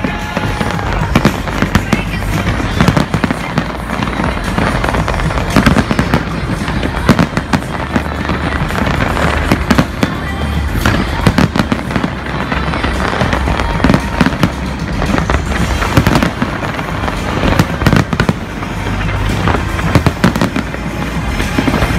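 Big fireworks display: shells bursting in rapid, overlapping bangs and crackles, with no let-up.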